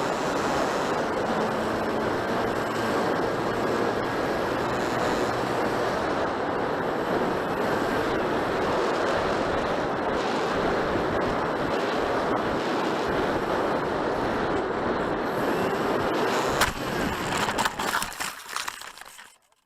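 Steady rushing wind noise buffeting the microphone. About 17 seconds in there is a sharp knock, and the noise then breaks up and dies away to silence.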